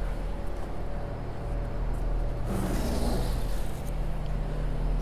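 Steady low mechanical hum, with a brief rustle of handled packaging about two and a half seconds in.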